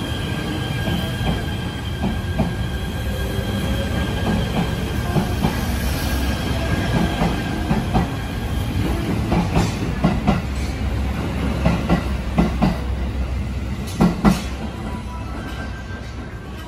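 JR 253 series 1000-subseries electric train pulling out past the platform: a steady rumble with a faint high tone, and its wheels clacking over rail joints in the second half, two sharp clacks standing out. The sound fades near the end as the train draws away.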